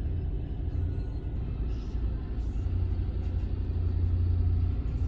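A motor vehicle driving past with a deep engine rumble that builds through the middle, is loudest about four seconds in, and eases near the end.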